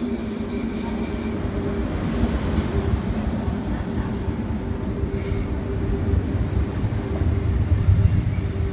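Electric commuter train running along the platform close by: a steady rumble of wheels on rail with a steady hum, growing louder toward the end as the coaches pass.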